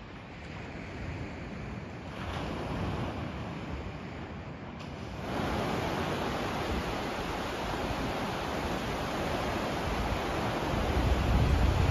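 Sea surf washing on the shore with wind, a steady rushing noise that jumps louder suddenly about five seconds in. Wind buffets the microphone with low rumbles near the end.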